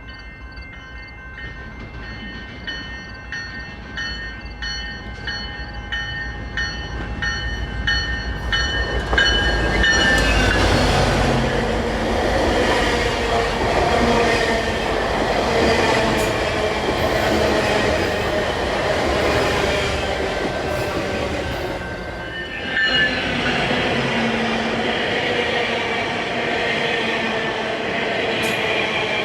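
Commuter train led by a GO Transit F59PH diesel-electric locomotive approaching and passing. Its bell rings in even strokes that drop in pitch as the locomotive goes by about ten seconds in. After that comes a loud, steady rush of the train's wheels and cars, with a brief lull past the two-thirds mark.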